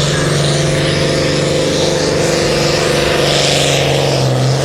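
Turbocharged diesel pulling tractor engine running hard at full throttle under load, a loud, steady drone that holds its pitch.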